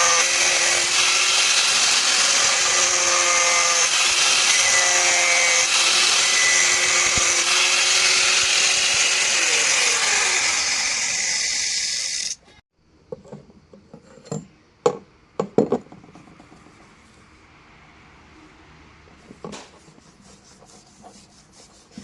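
A power tool working wood: a loud, steady rasping noise with a wavering motor whine, which cuts off abruptly about twelve seconds in. After that come a few light knocks and taps.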